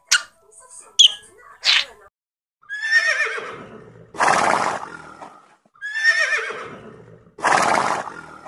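Horse neighing twice, each a wavering whinny that falls in pitch, followed by a loud breathy rush of noise. A few short, sharp sounds come in the first two seconds.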